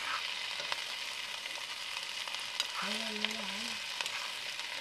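Sliced onions sizzling in hot oil in a steel wok as they are fried toward brown, stirred with a metal ladle that gives a few light clicks against the pan.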